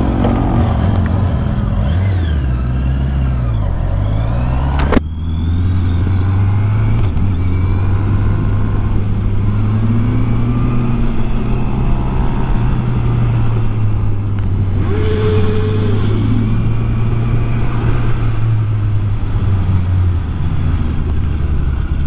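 Honda CBR650R's inline-four engine running under way, its pitch dipping and climbing again in the first few seconds. A single sharp knock sounds about five seconds in.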